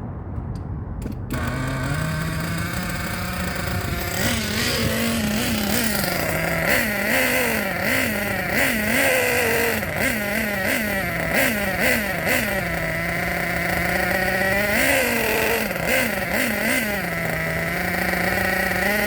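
Small single-cylinder nitro engine in an RC car, a Hyper race engine, catching about a second in and then running, blipped up and down in pitch again and again with short throttle revs.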